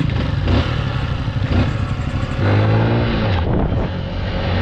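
Single-cylinder engine of a Honda 150cc dirt bike running under way, its pitch held steady for stretches, over steady riding noise.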